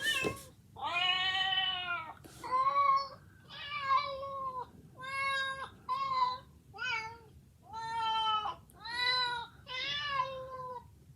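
A string of about ten cat meows, each under about a second long, with short pauses between them.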